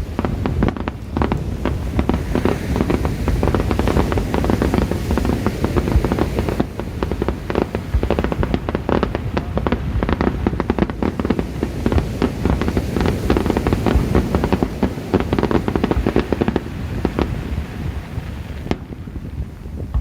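Fireworks display: a dense, rapid barrage of aerial shell bursts, booming and crackling over one another, thinning out in the last second or so.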